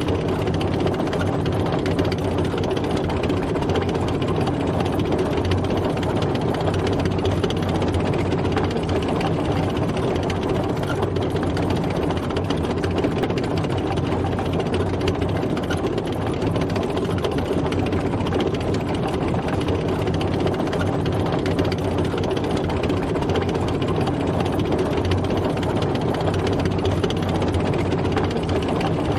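A tank driving, its engine running steadily at an even level with a dense mechanical clatter.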